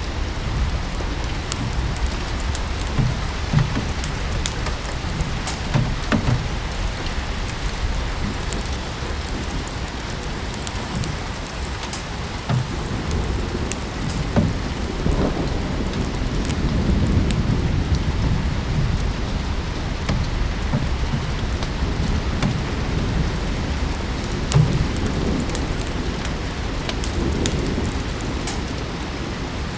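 Steady rain mixed with a wood fire crackling in a fireplace, with frequent sharp pops and snaps throughout. A low rumble swells up about halfway through and fades again.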